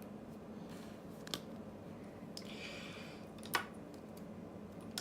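A hand cutting tool working at the outer jacket of a micro USB cable to strip it: two sharp clicks about two seconds apart, with a short scraping rasp between them.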